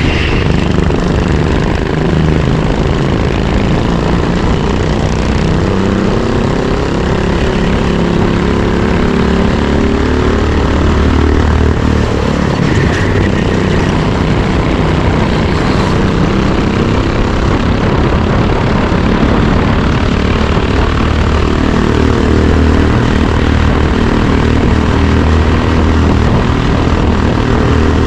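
Racing go-kart engine running hard, its pitch rising and falling over several seconds as the throttle is opened and eased through the laps.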